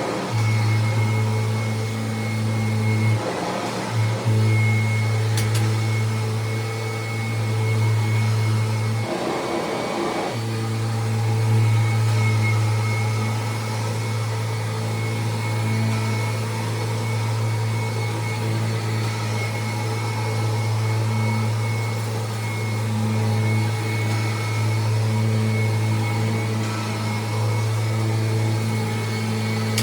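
A 1993 Kirby Generation 3 upright vacuum cleaner running on a test run, a steady deep hum with a thin high whine above it. Its hum breaks off briefly, with a short rushing sound, about three seconds in and again around nine to ten seconds.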